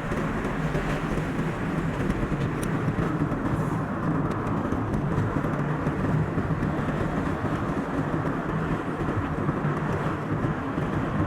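Steady road and engine noise of a moving car, played back at double speed.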